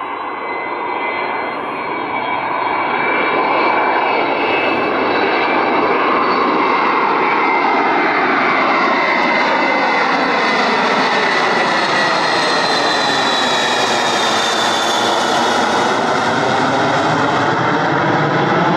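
Boeing 707-based E-3A AWACS jet on landing approach with one of its four turbofan engines shut down. Its engine noise grows louder over the first few seconds as it closes in, then holds loud and steady, with a high whine that slides slowly down in pitch as it passes.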